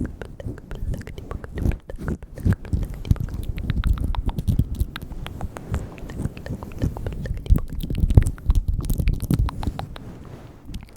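Close-miked ASMR mouth sounds: a fast, continuous run of wet lip and tongue clicks and smacks.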